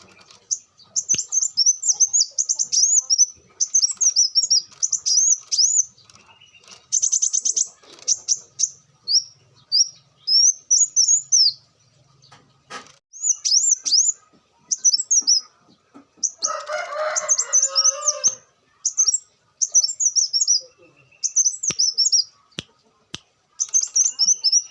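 Kolibri wulung (a sunbird) singing continuously: a fast, high-pitched twittering song of chirpy phrases in bursts with short pauses. About two-thirds of the way through, a lower, rougher sound lasting about two seconds comes in under the song.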